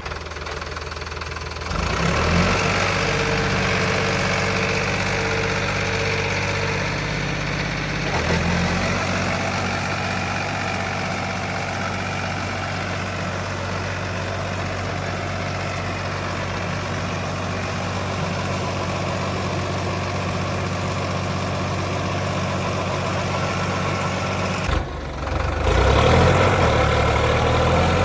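Tractor diesel engines running steadily, working in deep mud. The engine note changes abruptly about 2, 8 and 25 seconds in.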